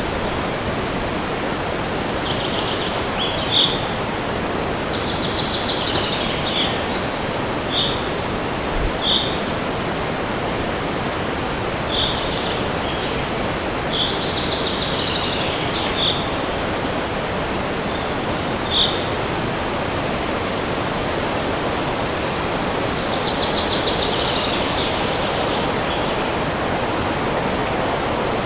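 Steady rush of wind through a forest, with songbirds calling over it: a dozen or so short, high single notes at irregular intervals and three longer trilled phrases, a few seconds in, about halfway through and near the end.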